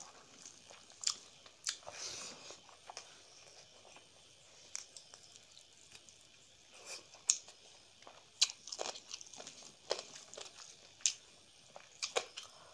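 Close-up eating sounds of rice and chicken curry eaten by hand: chewing and wet lip smacks, with sharp clicks at irregular moments.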